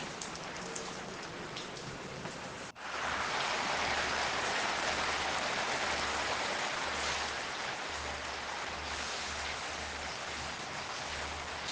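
Steady rain falling, a dense even hiss of drops. About three seconds in it cuts out for an instant and comes back louder and fuller.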